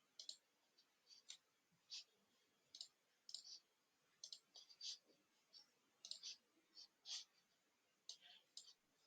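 Faint, irregular clicks of a computer mouse, about two a second, some coming in quick pairs like double-clicks.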